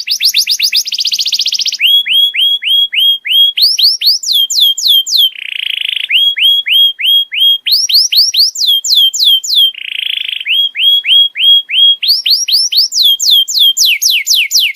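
Domestic canary singing: a fast trill, then runs of repeated whistled notes falling in pitch, a few per second, switching to higher rising-and-falling notes. Two short buzzing rolls come about six and ten seconds in.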